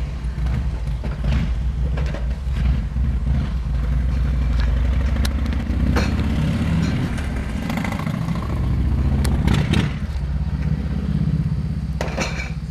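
A car on the move: a steady low rumble of engine and road noise, with a few short knocks and clicks.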